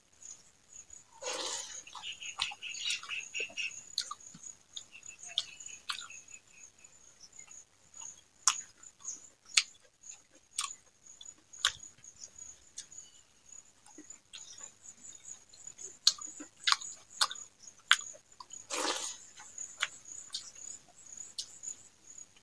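Close-up eating sounds of rice and fried leafy greens (saag bhaja) eaten by hand: sharp wet mouth clicks and smacks of chewing, with a couple of longer rustling bursts, over a steady high-pitched whine.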